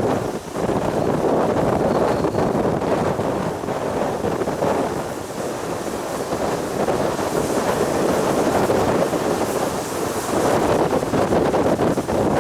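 Strong gusty wind buffeting the microphone, a loud rumbling rush that swells and eases from moment to moment.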